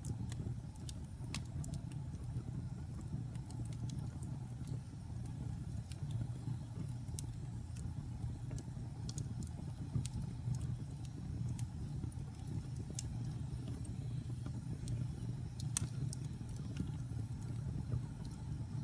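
Wood fire burning in a fireplace: a steady low rumble with scattered crackles and pops, one louder pop near the end.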